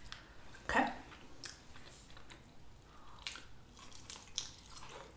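Close-up eating sounds: biting into and chewing a nori-wrapped sushi hand roll, with soft wet mouth noises and a few sharp crisp clicks, and a brief 'mm' about a second in.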